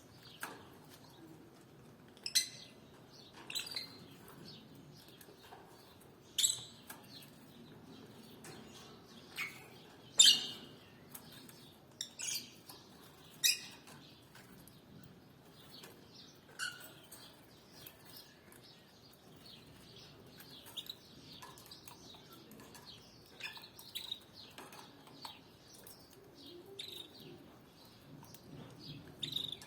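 Canaries chirping: short, sharp single call notes at irregular intervals, with fainter chirps in between.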